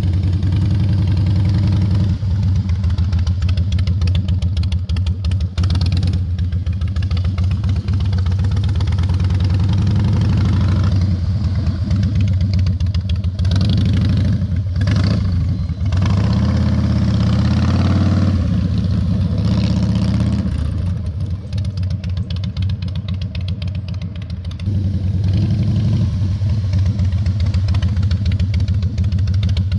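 Harley-Davidson V-twin motorcycle engine running at low speed during slow-speed maneuvering, the throttle rising and easing as it weaves, with a quieter, lower-revving stretch about two-thirds of the way through.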